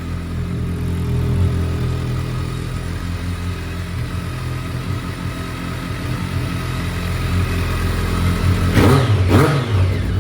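BMW K1200R Power Cup race bike's inline-four engine idling steadily through its Laser race exhaust, then two quick blips of the throttle, each rising and falling in pitch, near the end.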